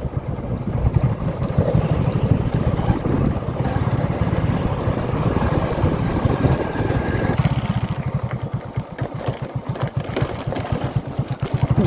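Light motorcycle's engine running as it is ridden, a steady rapid pulsing rumble that grows more distinct over the last few seconds.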